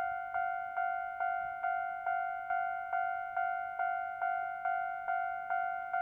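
Electronic level-crossing warning bell ringing, a single clear tone struck about twice a second in an even, unbroken rhythm, each strike fading before the next.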